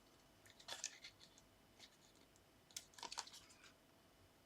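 Mostly near silence, with faint light taps and rustles of card and paper strips being handled and lined up on a card base, in two short clusters about a second in and around three seconds in.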